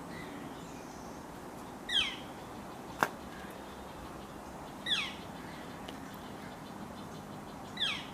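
A bird calling three times, about three seconds apart, each a short, high call that sweeps steeply downward. A single sharp click sounds about three seconds in.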